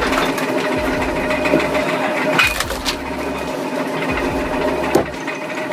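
Motor of a firewood-processing machine running steadily with an even hum, punctuated by sharp knocks about two and a half and five seconds in.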